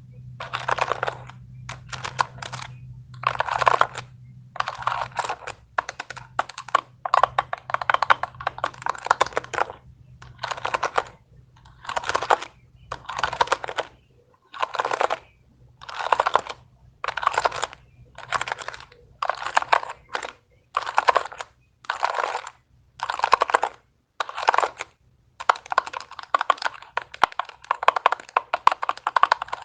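A fidget toy worked close to the microphone, giving short bursts of rapid clicking about once a second.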